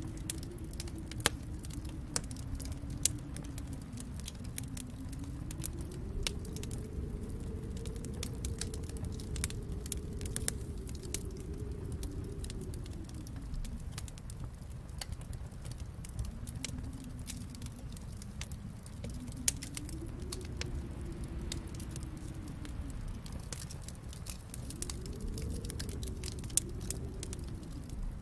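Wood fire in a fireplace crackling, with scattered sharp pops over a low rumble. Underneath, a low moaning tone slowly rises and falls several times.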